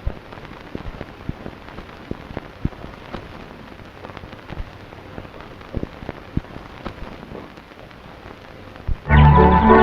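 Hiss and irregular crackles and pops from an old 1930s film soundtrack with no music yet. Loud orchestral cartoon music starts suddenly near the end.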